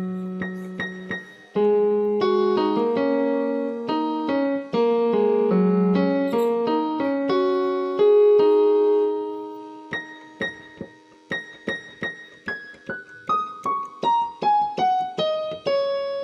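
Solo piano music: slow chords and melody, then a falling run of single notes near the end.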